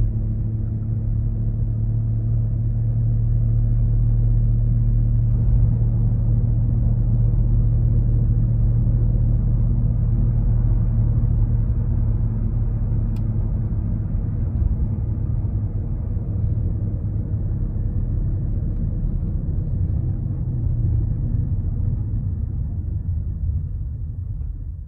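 2010 VW Golf 6 1.4 TSI being driven, with a steady low rumbling drone, the 'dorururu' noise the car makes below about 1,400 rpm. The owner places it near the transmission or the front passenger-side wheel, and the dealer suspects either a hub bearing or the transmission.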